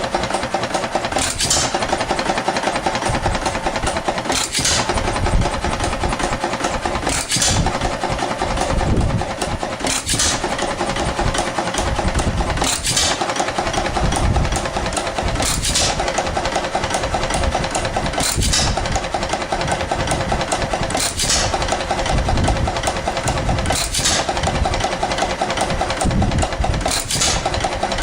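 1912 2 hp Sparta Economy hit-and-miss engine running: a sharp bang about every three seconds as it fires, with steady mechanical clatter from the turning engine between the firings.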